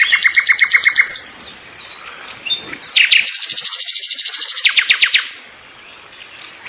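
Birds singing: fast trills of rapidly repeated high notes, about ten a second. One trill ends about a second in and another runs from about three to five seconds in, with short chirps between.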